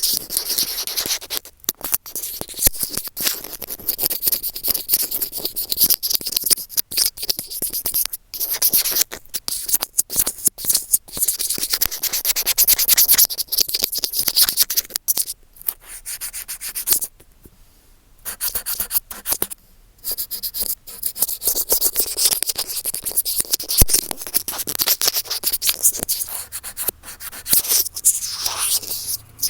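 Earphone microphone being rubbed and scratched vigorously right against its capsule, a dense, crackly scraping noise with a brief pause a little past halfway.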